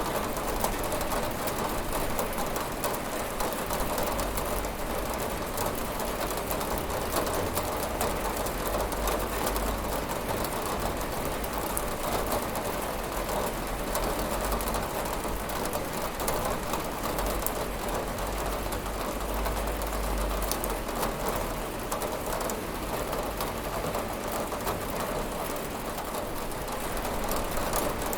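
Steady rain falling on a window: a dense, even hiss of drops with a low rumble underneath.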